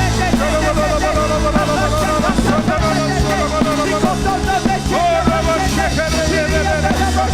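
Loud live worship music: a band playing over held bass notes with voices singing, the bass moving to a new note about three seconds in.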